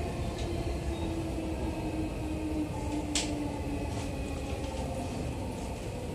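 Interior running sound of an Odakyu 4000-series electric train: a steady low rumble of wheels on rail and a motor whine that sinks slightly in pitch as the train slows into the terminal. There is a brief sharp squeak about three seconds in.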